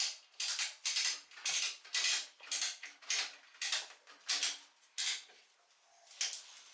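Repeated short scraping or brushing strokes on metal, about two or three a second, pausing briefly near the end.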